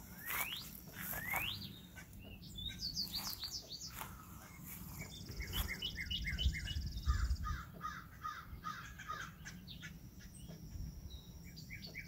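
Wild birds calling in woodland: two quick rising whistles near the start, then a long run of rapid, repeated chirping notes through the middle, over a low rumble.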